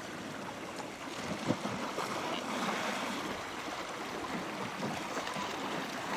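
Sea water washing and sloshing around a kayak and the rocks close by, with one short knock about one and a half seconds in.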